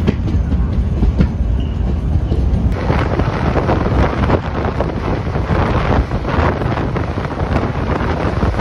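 Express train running on the track, heard from aboard the moving coach: a steady low rumble of wheels on rail with rapid clicking clatter and some wind rush. The clatter grows busier about three seconds in.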